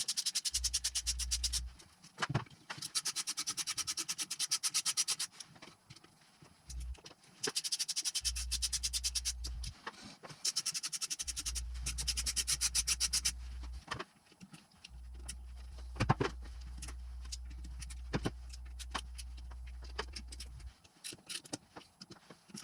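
Ratchet wrench clicking in quick runs of one to two seconds as a fastener is turned. Single knocks of tools and parts come between the runs.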